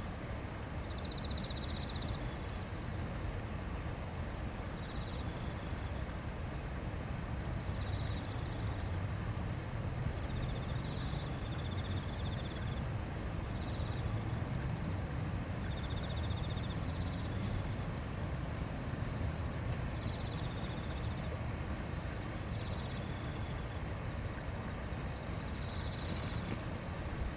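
A shallow river or stream running steadily, a constant rushing murmur with a low rumble. Short high-pitched trills from a small animal repeat every second or two over it.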